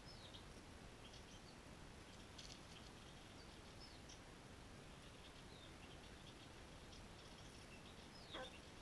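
Near silence with faint, high bird chirps scattered throughout, and one short call sweeping sharply down in pitch near the end.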